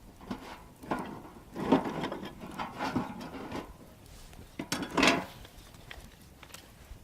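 Handling noise: a run of irregular knocks, scrapes and rustles, with a sharper clatter about five seconds in.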